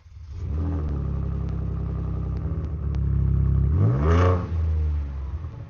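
Ford Ranger Raptor engine through its stock exhaust, starting up and settling into a steady idle, then revved once about four seconds in, the pitch climbing and falling back to idle.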